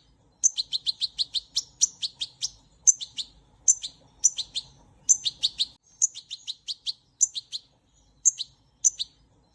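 A small bird chirping: quick runs of short, high chirps, several a second, broken by brief pauses.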